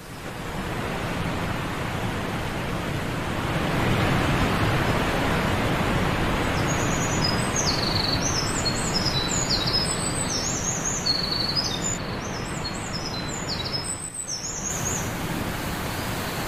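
Waterfall water rushing, a steady, even noise. From about six seconds in, for roughly eight seconds, a small bird sings a rapid series of short, high chirps over it.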